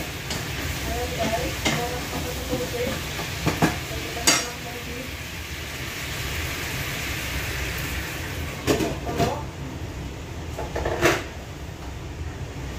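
Chicken and vegetables sizzling in a wok over a gas flame, a steady frying hiss, with several sharp knocks and clinks of pans and utensils.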